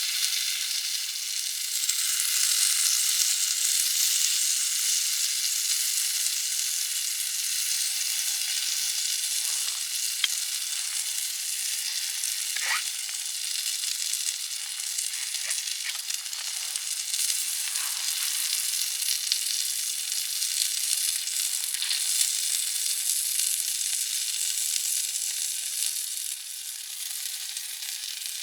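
Steady sizzling hiss over the campfire grill, with a few sharp crackles and pops scattered through the middle.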